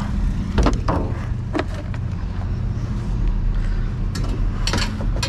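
Scrap clattering and knocking in a dumpster as it is pulled about, a few sharp knocks scattered through, over the steady low hum of an idling vehicle engine.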